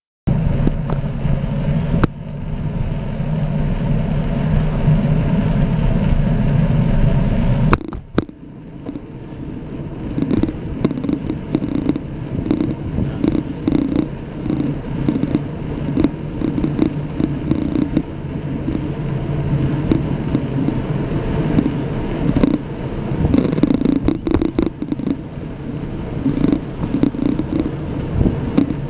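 Ride noise from a camera on a moving bicycle: wind on the microphone and tyre rumble on the path. It drops off abruptly about eight seconds in, then carries on with an uneven, pulsing rumble.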